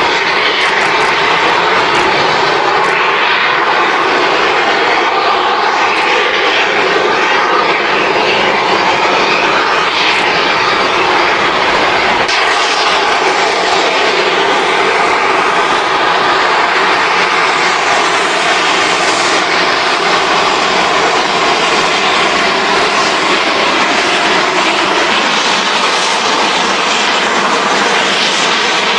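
Steady, loud roar of a steam train running, with no distinct beats or breaks.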